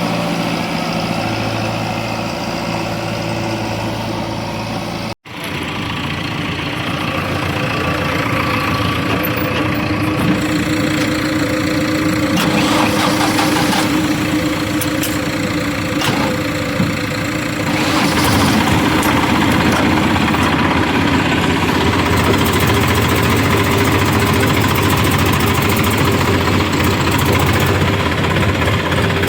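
Diesel engine of heavy farm or construction machinery running steadily. A short break about five seconds in marks a cut between two clips, and the engine gets louder about eighteen seconds in.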